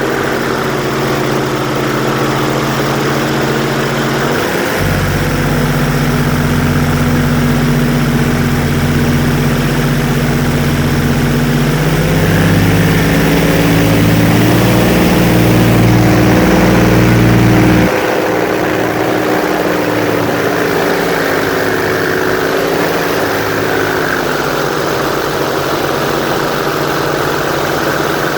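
Airboat's engine and large air propeller running, its note shifting as the throttle changes: a deeper, heavier rumble comes in about five seconds in, builds a little, and drops back abruptly around eighteen seconds.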